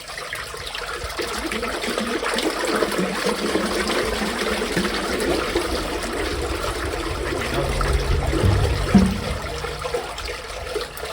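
Backed-up water rushing and gurgling away down a drain as a tissue blockage clears. It builds over the first couple of seconds, surges with a deep gulp about nine seconds in, then eases off.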